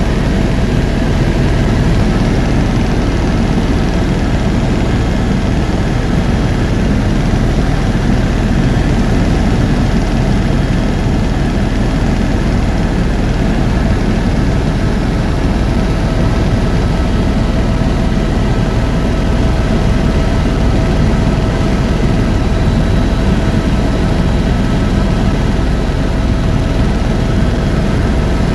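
Tour helicopter in flight: a steady, unbroken drone of engine and rotor noise, with a faint steady whine on top.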